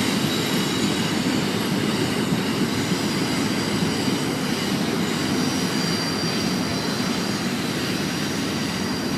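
BNSF intermodal freight train rolling past, a steady rumble of cars on the rails with a faint high squeal from the wheels, easing slightly near the end.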